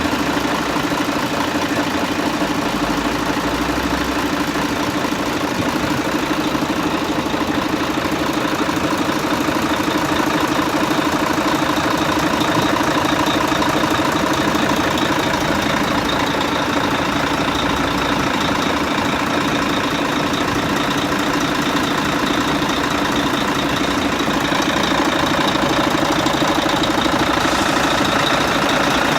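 Fire truck engine running at a steady, unchanging speed with a constant hum. A high, thin whine becomes stronger in the last few seconds.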